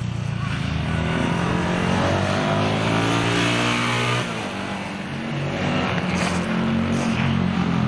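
Yamaha SRX250 single-cylinder four-stroke motorcycle engine revving up as it accelerates past, its pitch climbing, then dropping suddenly about four seconds in as the throttle closes, and running on at a lower, steadier note.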